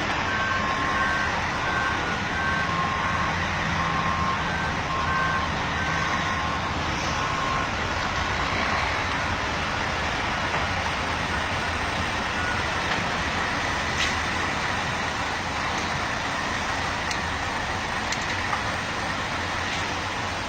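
Truck engine running steadily under a constant rush of noise, with a reversing alarm beeping about once a second for the first seven seconds or so.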